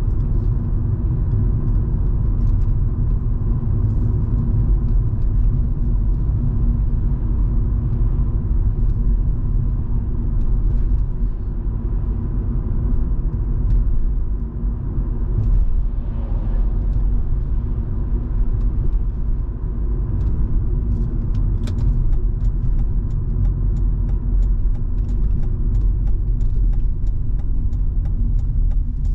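Volvo V70 2.5T on the move, heard inside the cabin: a steady low road and tyre rumble with the hum of its turbocharged five-cylinder engine at an even cruise. In the last third, scattered short ticks come in over the drone.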